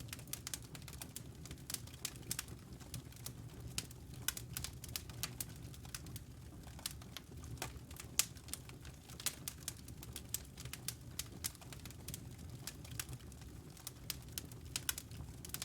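Wood fire crackling: many small irregular pops and snaps from burning logs over a steady low rumble of the flames.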